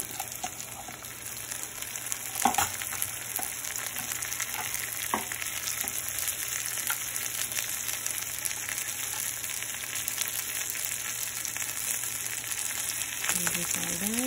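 Chopped cluster beans sizzling and frying in hot oil in a pressure cooker, a steady hiss, with a sharp knock about two and a half seconds in and a lighter one a few seconds later.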